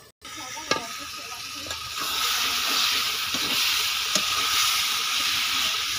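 Chicken and potato curry sizzling in a kadai over a wood fire: a steady hiss that grows louder about two seconds in, with a few sharp ticks.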